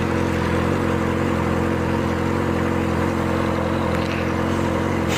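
Yamaha R6's inline-four engine idling steadily through a loud exhaust.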